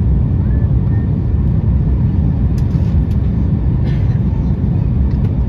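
Steady low rumble of an Airbus A350-900 as heard inside the passenger cabin during landing, with a couple of faint clicks.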